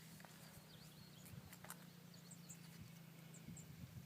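Near silence: faint outdoor ambience with a low steady hum, a few soft scattered clicks and faint high chirps.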